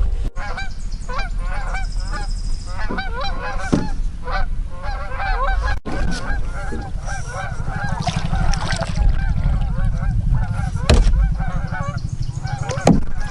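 A flock of geese honking, many short calls overlapping one another, over a low steady hum.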